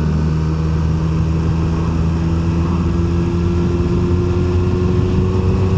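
QJMotor SRK 921 RR's inline-four engine running steadily at a gentle cruise in sixth gear, its pitch creeping up slightly, with wind and road noise from the ride.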